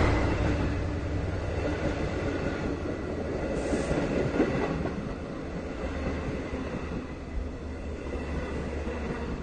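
Long Island Rail Road Kawasaki C3 bilevel passenger cars rolling past at low speed as the train pulls into the station, a steady low rumble of wheels on rail that slowly eases. A faint steady high squeal runs underneath it.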